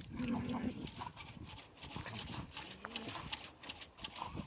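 Wolfdogs moving about: rapid crisp clicks and scuffs of their feet, with a brief low vocal sound from one of them near the start and another about three seconds in.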